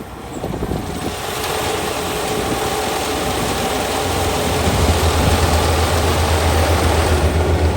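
Kubota ER572 combine harvester running, its engine and machinery growing louder over the first few seconds, with a deep steady hum coming in about halfway.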